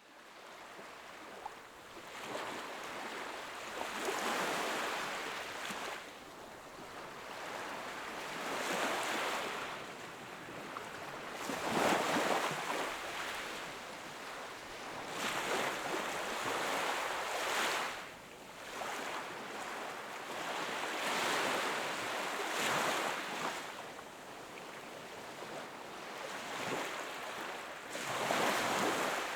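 Sea waves washing onto the shore, each wash swelling and ebbing every three to five seconds. The sound fades in at the start.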